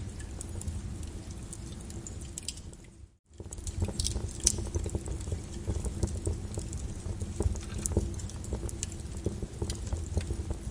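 Flowing lava crackling and popping over a low rumble, cutting out briefly about three seconds in before resuming.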